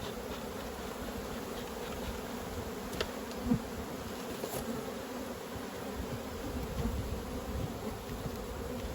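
Honey bees buzzing steadily, the dense hum of many bees in the air around a hive. A couple of light knocks sound about three seconds in.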